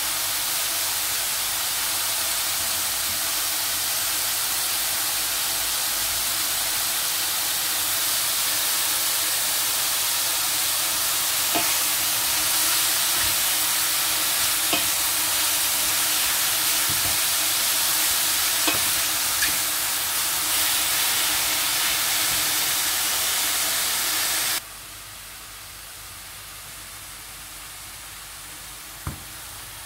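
Sliced mushrooms and red bell pepper strips sizzling as they fry in a stainless steel pan, with a wooden spoon stirring and knocking against the pan now and then. The sizzle is loud and steady, then drops suddenly to a much quieter level near the end, where a few sharper knocks come.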